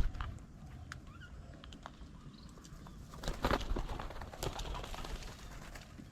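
Birds at a bird table: short chirps and calls, with a louder flurry about three seconds in.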